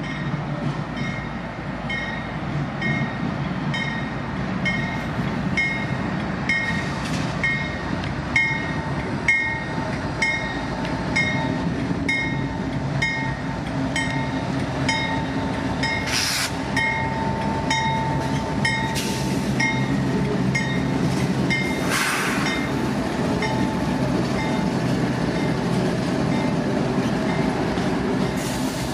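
A railroad grade-crossing bell rings steadily at a little under two strikes a second as CSX diesel locomotives approach and pass with a growing engine rumble. A steady whine holds for several seconds midway, and a few brief noise bursts come near the end.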